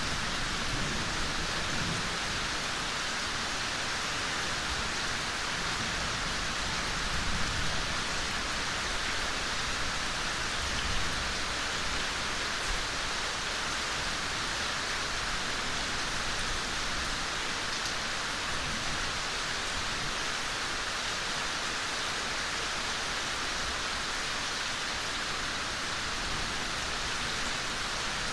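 Gentle rain falling steadily on a forest, an even hiss of countless drops. A low rumble of thunder dies away in the first seconds.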